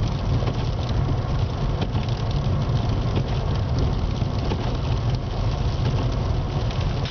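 Steady low rumble and hiss of a car heard from inside the cabin, its engine running.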